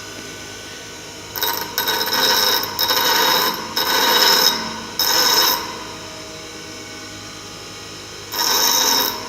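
A bench grinder runs steadily while a mild-steel tool blank is pressed lightly against the grinding wheel in short touches, each giving a high, ringing grind. There are about five touches in quick succession in the first half and one more near the end, as the front face of a single-point cutting tool is shaped.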